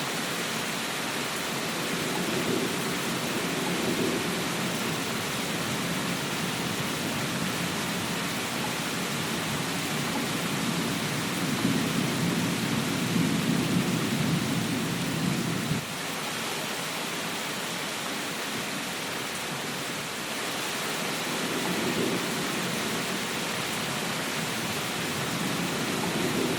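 Steady rain hiss with low rumbling swells coming and going. The strongest swell comes about halfway through and cuts off suddenly.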